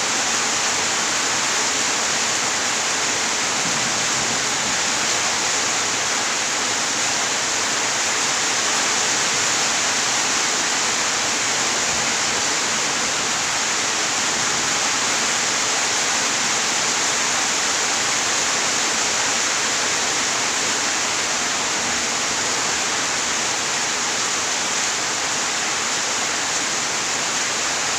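Steady rain falling: a dense, even hiss with no thunder and no single drops standing out.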